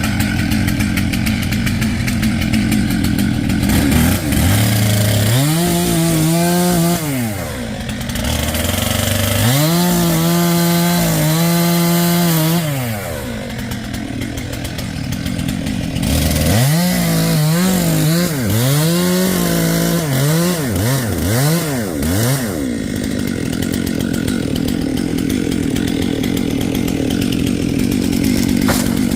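Two-stroke chainsaw revved up to full throttle and held there three times, as in cutting, then blipped several times in quick succession. Another engine runs steadily underneath throughout.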